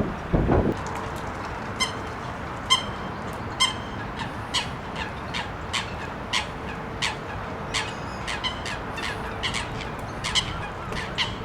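A crow-family bird giving short, harsh calls over and over, a few each second, against steady wind noise. A brief low thump comes about half a second in.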